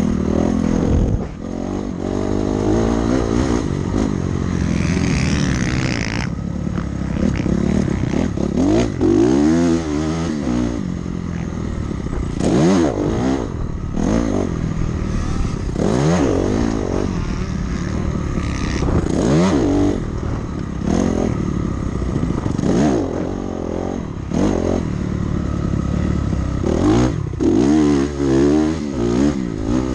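Dirt bike engine being ridden hard: revving up and dropping back again and again, its pitch rising and falling every second or two as the throttle is worked.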